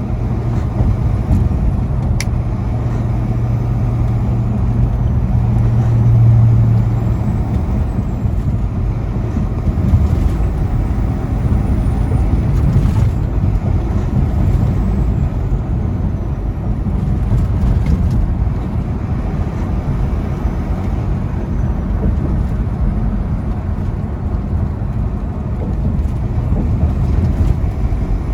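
Semi truck at highway speed heard from inside the cab: a steady low engine drone over tyre and road rumble, the drone swelling briefly about six seconds in.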